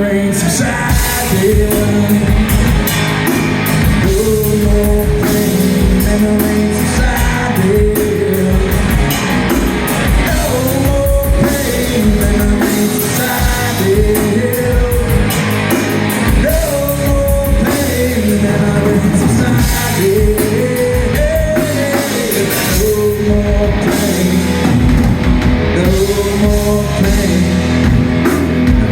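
Live rock band playing: sung vocals over electric guitar and a drum kit keeping a steady beat.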